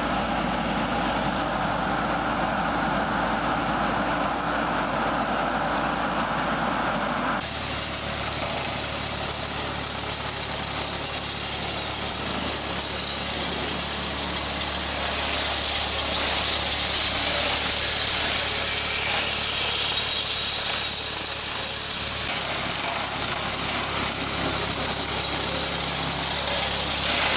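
Engine of a vehicle or machine running steadily, in three stretches that change abruptly about 7 seconds in and again near 22 seconds.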